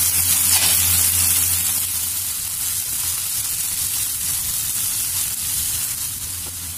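Frozen green peas sizzling in hot oil in a frying pan while a spatula stirs them; the sizzle gradually dies down.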